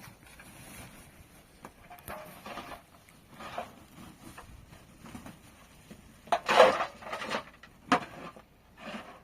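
Irregular rubbing and scraping with a few light knocks. The loudest scrapes come about six and a half and eight seconds in.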